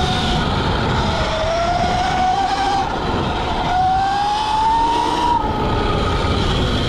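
Sur-Ron electric dirt bike, a home-built 80 V 29 kW conversion in its 19 kW power setting, whining from its motor and primary chain drive while ridden off-road. The whine rises in pitch twice as the bike accelerates and falls away about five seconds in as the throttle eases, over a constant rough rushing noise.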